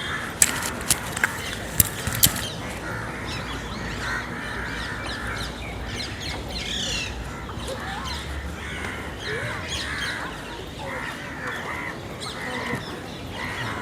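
Crows cawing among other bird calls, with a few sharp clicks in the first couple of seconds.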